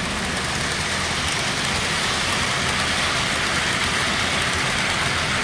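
Model train running on the layout track, a steady even whirring and rolling noise with a faint low hum that does not change.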